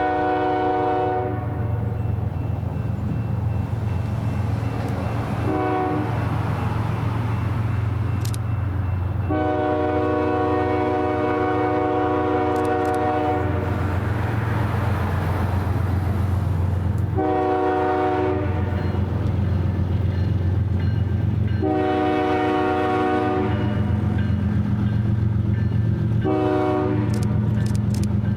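Diesel freight locomotive's horn sounding about six blasts, one held for about four seconds and one very short, over the steady low rumble of the train's engines.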